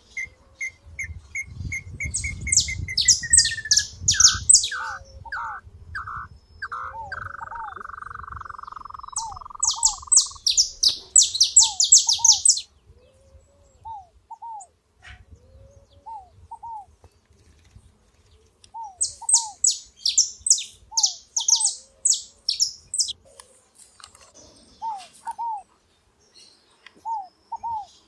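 Saffron finches singing: three bursts of fast, high, chattering song, over a short downward call repeated every second or two. In the first half a run of notes speeds up, then drops into a long falling whistle.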